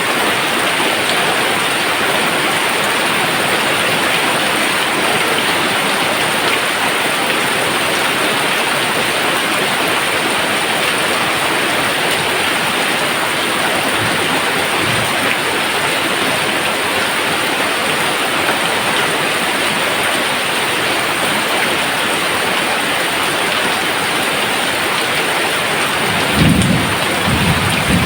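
Steady heavy rain, with faint low thunder rumbles about halfway and a louder burst of low rumbling near the end.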